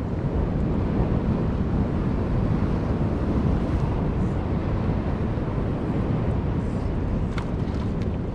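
Steady wind on the microphone with the wash of sea waves, a constant low noise with no distinct events.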